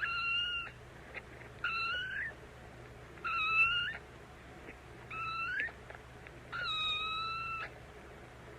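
An animal calling five times: short, high, steady-pitched cries about a second and a half apart, several of them bending upward at the end.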